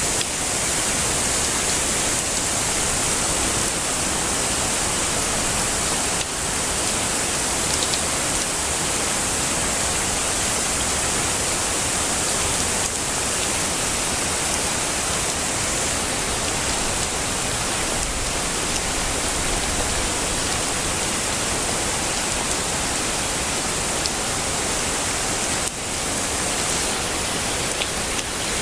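Heavy rain falling steadily, a dense even hiss without thunder.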